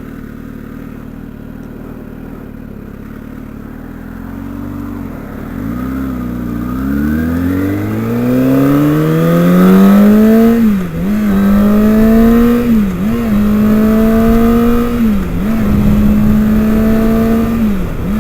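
Kawasaki Ninja ZX-6R sport motorcycle engine idling, then pulling away about five seconds in, its pitch climbing steadily as it accelerates. It then holds a steady note, dipping briefly in pitch about four times.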